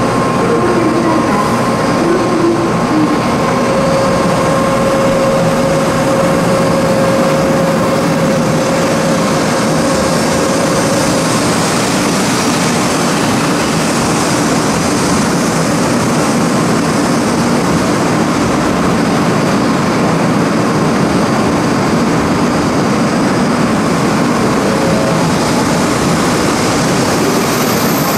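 500 series Shinkansen train entering the station and running along the platform close by: a loud, steady rush and rumble of the passing cars. A steady whine stands out for the first ten seconds or so.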